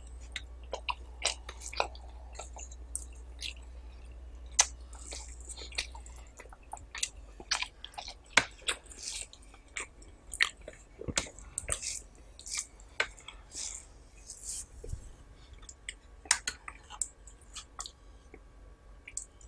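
Close-miked chewing, with wet smacks and clicks of a mouth eating rice and curry, coming irregularly. A low hum sits underneath and stops about six seconds in.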